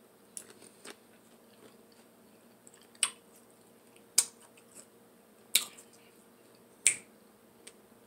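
Sharp wet mouth clicks and lip smacks from someone chewing food close to the microphone, about eight at uneven spacing.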